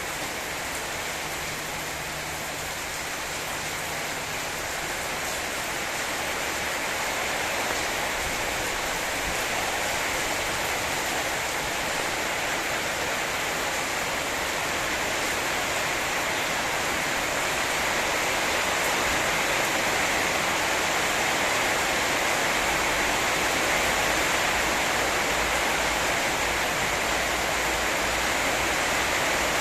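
Heavy rain pouring down in a steady, dense hiss that grows a little louder toward the end.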